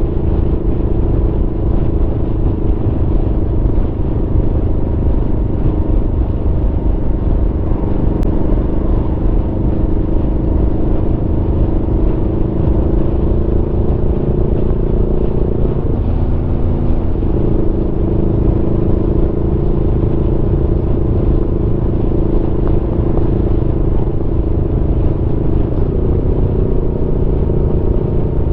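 Aprilia Tuono V4's V4 engine running steadily at cruising revs over a heavy low rush of wind and road noise. The engine note climbs slightly, then drops and wavers for about a second and a half around the middle before settling again.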